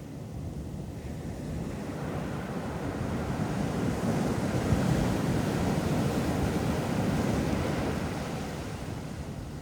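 Ocean waves breaking on a sandy beach: the surf swells to its loudest about halfway through, then eases off as the wave washes out.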